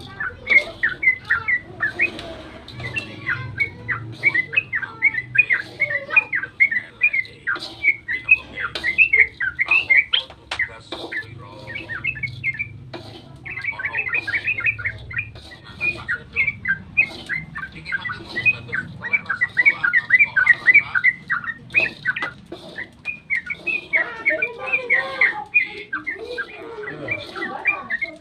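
Yellow-vented bulbul (trucukan) singing its long, rapid chattering song (ropel): quick bubbly notes many times a second, broken by a short pause about halfway through.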